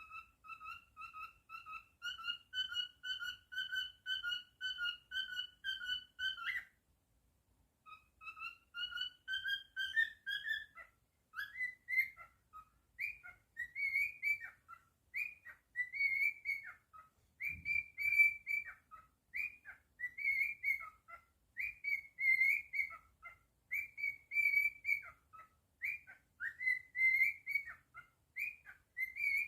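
Cockatiel whistling: a long run of short, quick, repeated whistled notes, then a brief pause about seven seconds in, a run of notes climbing in pitch, and from about eleven seconds on a quicker string of higher chirps, each dropping at the end.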